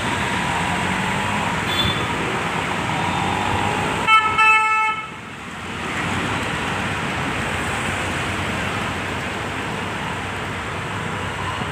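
Steady road traffic noise, with a vehicle horn tooting a few short times in quick succession about four seconds in.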